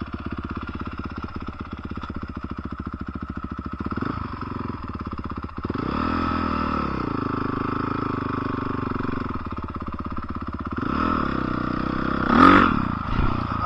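Dirt bike engine idling with a fast, even firing beat. It is revved up about six seconds in and held for a few seconds, then given two more throttle blips near the end, the last one the loudest.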